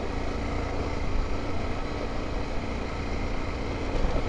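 Honda XRE300's single-cylinder four-stroke engine running at a steady pitch while riding, with a strong low rumble underneath.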